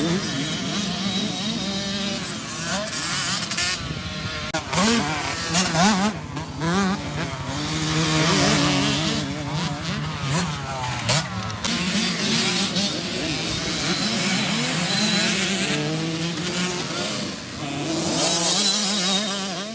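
Youth two-stroke motocross bike engines revving on a track, pitch rising and falling again and again, with several bikes overlapping. The repaired power valve lets the KTM 65 pull cleanly into its power band.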